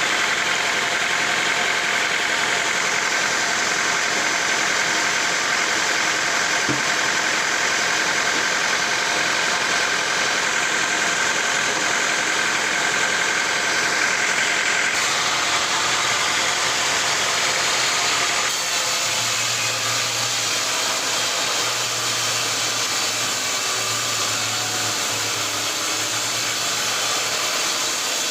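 Sawmill machinery running steadily, a dense mechanical noise with a constant hum. The sound changes abruptly about halfway through and again a few seconds later, then a low pulsing hum joins in.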